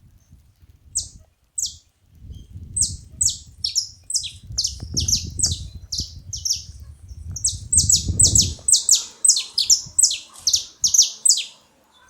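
Saffron finch calls: a long series of short, sharp high notes, each sliding downward, coming about three to four a second. A low rumble runs underneath from about two to eight seconds in.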